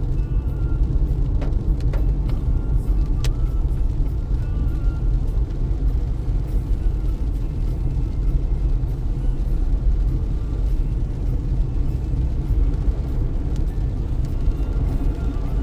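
A car driving through heavy rain: a steady low rumble of road and tyre noise, with scattered sharp ticks of raindrops hitting the windshield.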